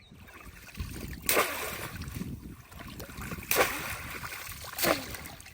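Bamboo polo trap being plunged into shallow water: three sharp splashes, about two seconds and then a second apart, with sloshing water between them.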